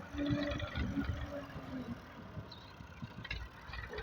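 Massey Ferguson 240 tractor's diesel engine running while working a rear blade to level ground, with an uneven low rumble.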